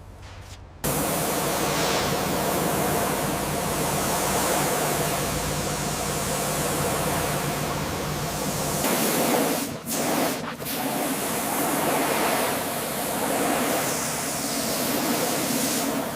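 A loud, steady hiss that starts abruptly about a second in, with two brief breaks around ten seconds in.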